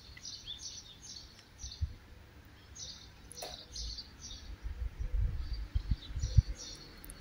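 Small birds chirping repeatedly in short high calls, with low rumbles that grow louder in the second half.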